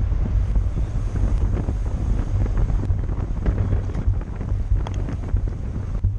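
Wind buffeting the microphone of a camera riding along at race speed on a bicycle: a steady, loud low rumble with hiss, and a few faint ticks.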